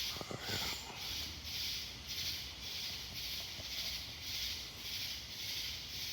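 Night insects chirring in a steady, even rhythm, about two pulses a second. A brief rustle of handling comes near the start.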